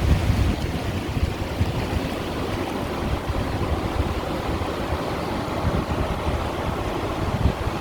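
Sea water washing and splashing against shoreline stones in a continuous wash, with a low, uneven rumble underneath.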